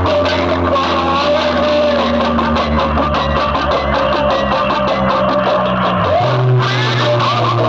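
Loud music with guitar over a deep, held bass, played through a DJ sound system. Fast even strokes run through the middle, and the bass note changes about six seconds in.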